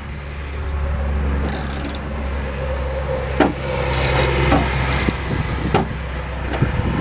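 Ratchet wrench clicking in three short bursts as a bolt is worked in, with a few sharp taps of metal on metal, over a steady low engine hum that fades about five seconds in.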